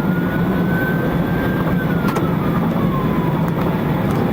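Police siren on wail, one slow cycle: it rises, holds, then sinks slowly and starts to climb again near the end. Underneath is a steady drone of engine and road noise.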